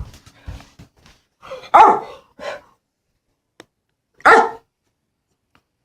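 A dog barking: two loud barks, about two seconds in and just past four seconds, with a softer bark between them. The dog is blind and is barking at a visitor it cannot locate.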